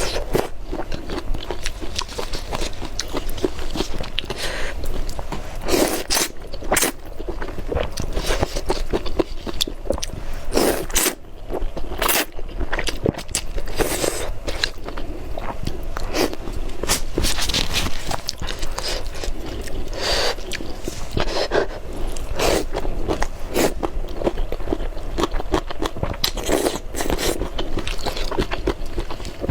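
Spicy noodles being slurped and chewed close to the microphone. Many crisp wet mouth clicks and smacks, with short noisy slurps throughout.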